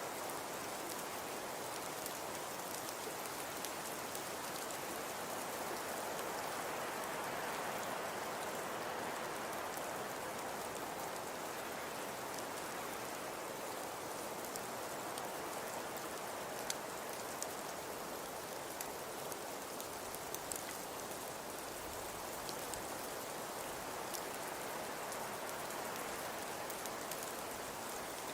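Fireplace fire crackling: a steady hiss with a few sharper pops scattered through the second half.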